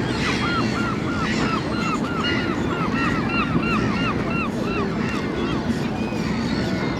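Birds calling: a fast run of short, arched calls, several a second, with a second, higher-pitched caller joining in, fading out near the end, over a steady low rumble.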